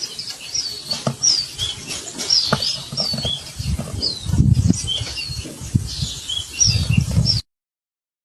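A bird calling in quick repeated high chirps, each falling in pitch, over low rumbling thuds that are loudest about four seconds in and near the end; the sound cuts off suddenly.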